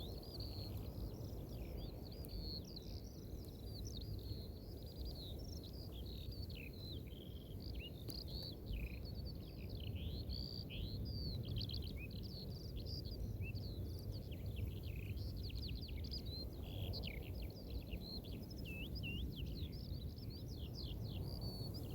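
Small birds singing continuously, a dense stream of overlapping short chirps and warbling trills, over a steady low rumble of wind on the microphone.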